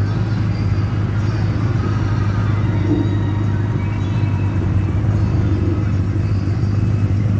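Car engine running at a steady idle, a constant low rumble.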